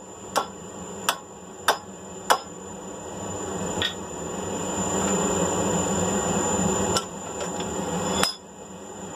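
Hand hammer striking mild steel flat bar: four sharp blows about 0.6 s apart. Then a steady rushing noise builds, with a few lighter knocks and one more sharp knock near the end.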